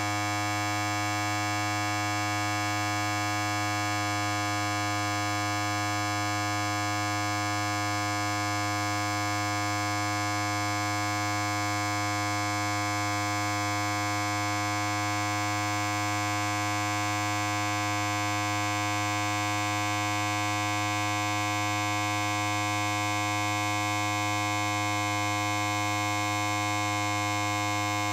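Electric hair clipper running continuously: a steady, unchanging low buzz with many overtones.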